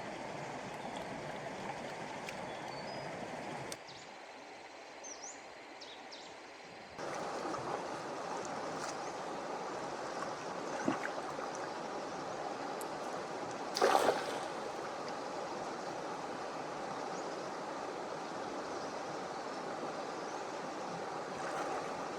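Steady rushing of flowing water, with a drop to a quieter stretch for a few seconds early on and one brief louder splash or knock about two-thirds of the way through.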